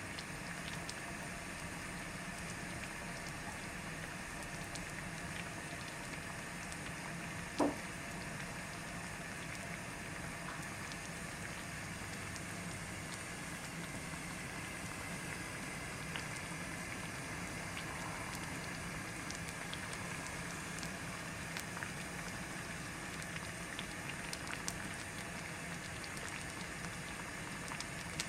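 Doenjang jjigae boiling in a ttukbaegi earthenware pot: steady bubbling with small pops. A short sharp sound falling in pitch cuts through once, about eight seconds in.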